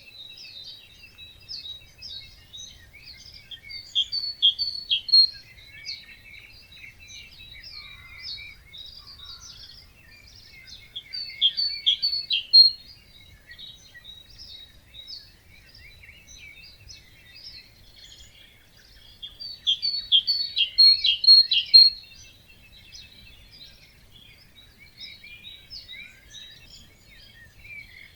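Several wild birds singing in an early-morning chorus. One louder bird sings a short phrase of quick, evenly repeated notes three times, several seconds apart, while others chirp and twitter more quietly in between.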